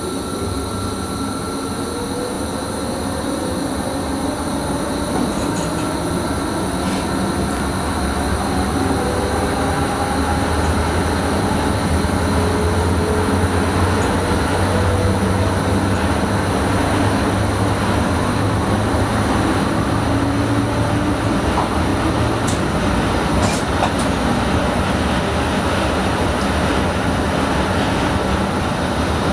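Electric Sprinter train running, heard from the driver's cab: wheels rumbling steadily on the rails, under a motor whine that rises in pitch and grows louder over the first ten seconds or so as the train gains speed.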